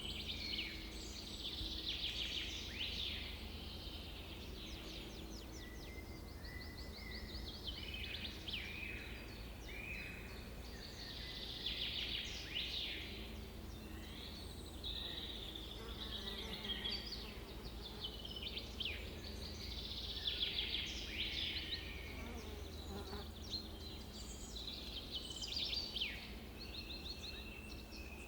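Several birds singing and calling at once, with overlapping high trills and quick chirps, over a steady low rumble.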